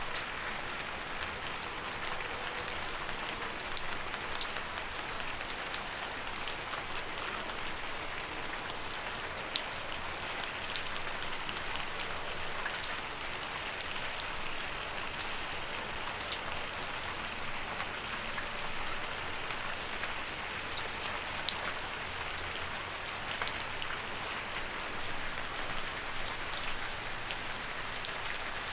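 Steady rain falling, an even hiss with individual drops ticking sharply on a surface here and there, one louder drop about 21 seconds in.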